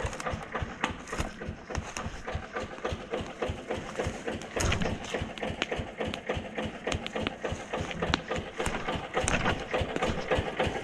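Footsteps crunching through brush and debris on the forest floor, several irregular steps a second, with an engine running steadily underneath.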